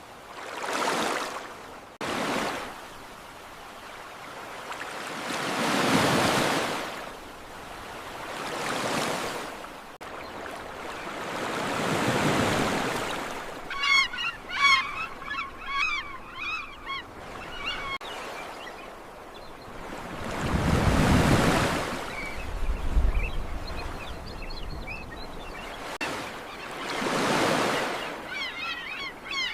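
Ocean waves washing in, each swell rising and falling every few seconds. Birds chatter in quick bursts of calls about halfway through and again near the end.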